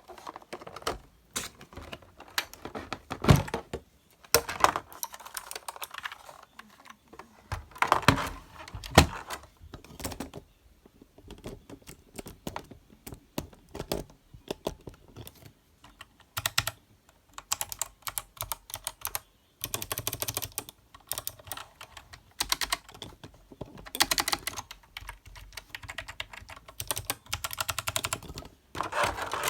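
Keys being typed on a GK002-L one-handed keyboard: irregular runs of key clicks, some quick and dense, with short pauses between them.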